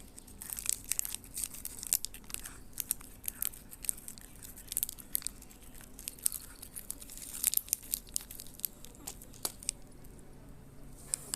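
Cat eating, chewing its food with a run of quick, irregular sharp clicks that thin out near the end.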